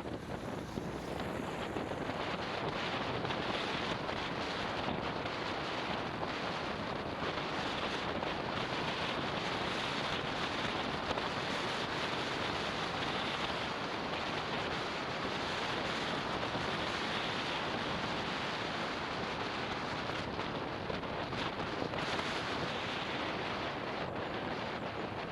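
Steady rush of wind buffeting the camera microphone on a motorbike riding downhill, an even noise with no clear engine note.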